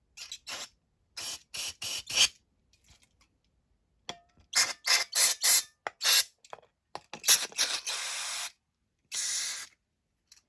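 Spray hissing in a dozen or more short bursts, with two longer ones near the end, typical of spraying out a carburettor's blocked jets.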